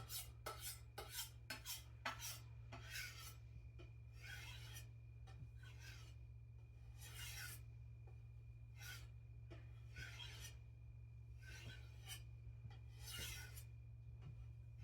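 A knife blade being stropped, faint scraping strokes along the strop: quick short strokes, about four a second, for the first two seconds, then slower, longer strokes about one every second and a half. The stropping is done with heavy pressure to finish a soft-steel edge.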